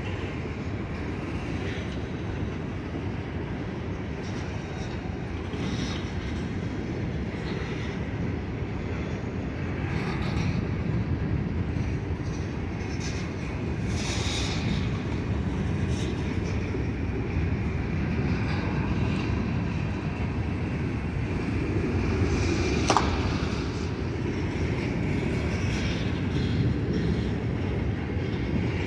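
Freight cars of a manifest train, covered hoppers and gondolas, rolling past at steady speed: a continuous rumble of steel wheels on rail, with faint wheel squeal at times and one sharp clank about two-thirds of the way through.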